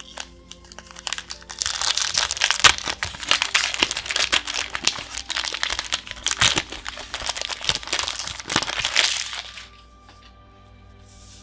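Foil booster-pack wrapper crinkling and crackling as it is handled and opened, a dense run of crinkles lasting about eight seconds before it stops. Quiet background music plays underneath.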